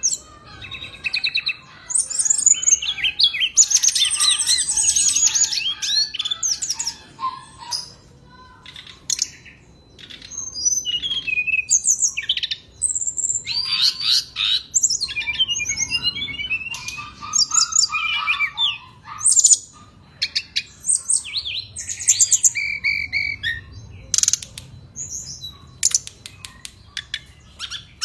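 A songbird sings a long, varied song of rapid chirps, trills and sweeping whistles, with brief pauses between bursts. It is the kind of recording played to caged birds to get quiet ones singing.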